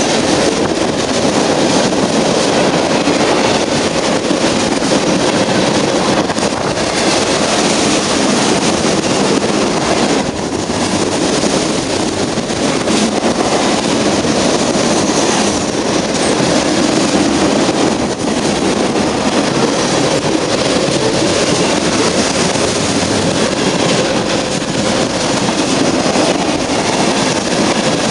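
A train passing: rail cars rolling along the track, a loud, steady noise that holds without a break.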